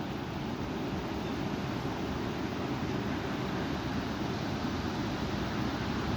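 Strong wind blowing: a steady rushing noise, heaviest in the low end, that builds slightly toward the end.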